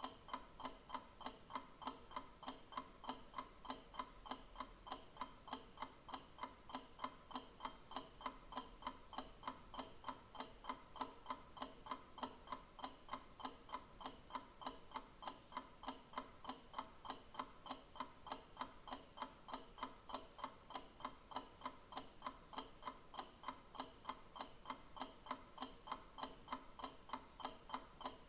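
Clock ticking steadily, about two ticks a second, evenly spaced and unchanging.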